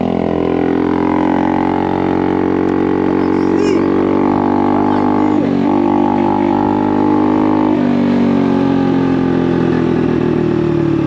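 Honda Navi's small single-cylinder engine running under way through an aftermarket Vance & Hines exhaust, a steady drone that dips briefly about five and a half seconds in. The throttle eases off at about eight seconds, and the pitch then falls slowly.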